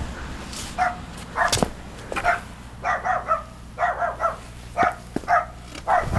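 A young dog barking, about nine short barks in irregular runs, a dog still learning how to bark.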